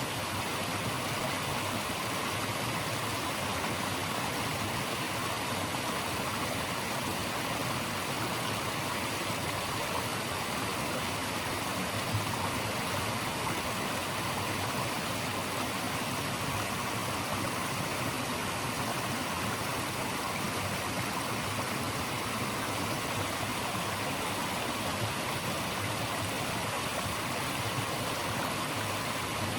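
Running water rushing in an even, unbroken noise, like a stream or small cascade, with no distinct events.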